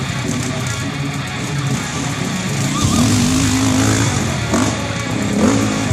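Off-road motorcycle engine revving hard on a steep hill climb, its pitch rising with the throttle a couple of times, over other bikes running.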